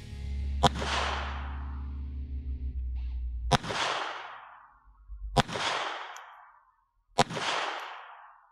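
Four sharp pistol shots from a FEG PA-63 in .32 ACP, each followed by a long echo that fades over about a second and a half. Music fades out under the first shot.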